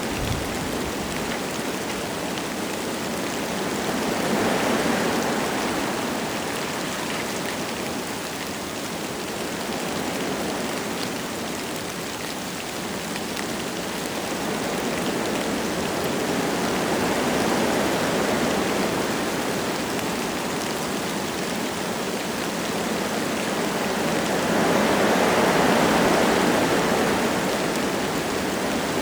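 Wind gusting through forest trees with light rain falling. The rushing swells and fades in waves, with gusts about five seconds in, again past the middle, and the strongest near the end.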